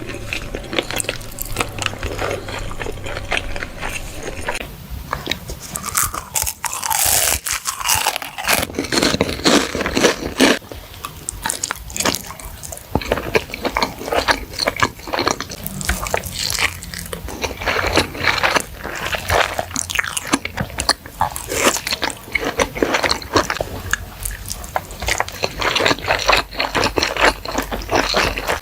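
Close-miked eating of spicy baby squid: repeated biting and chewing with irregular clicking mouth sounds.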